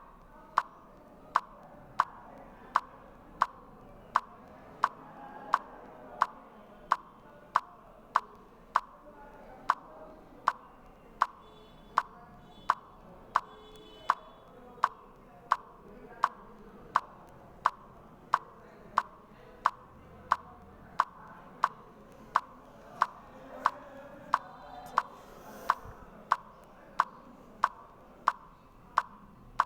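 Steady, evenly spaced sharp ticks, about three every two seconds, over a faint background hiss.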